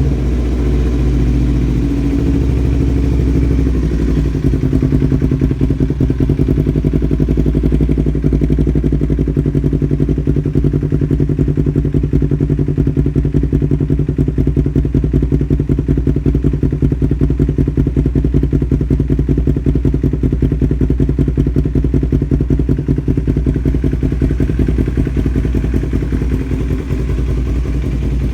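Yamaha R25's 250 cc parallel-twin engine idling steadily through an aftermarket Sakura exhaust just after a cold start. The idle shifts slightly in the first few seconds, then holds even.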